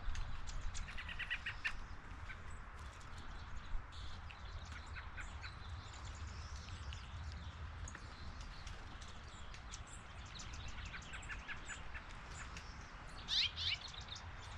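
Wild birds chirping outdoors in short series of quick high chirps, with a louder pair of sharp calls near the end. A steady low rumble runs underneath.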